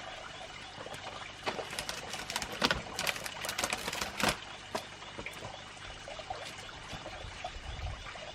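Water pouring and trickling steadily, with a run of sharp splashy clicks about two to four seconds in.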